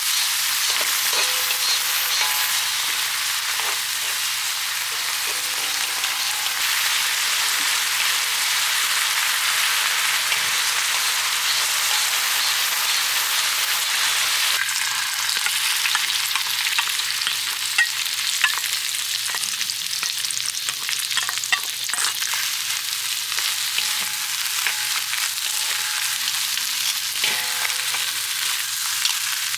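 Food sizzling steadily on a hot cast-iron cooking lid, with scattered scrapes and taps of a spatula stirring it.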